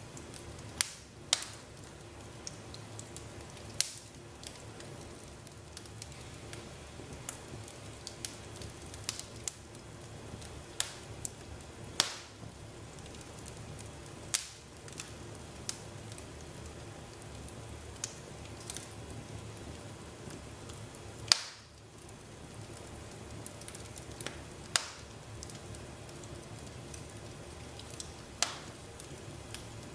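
Wood fire crackling in a fireplace: a steady low hiss broken by irregular sharp pops and snaps, one louder crack about two-thirds of the way through.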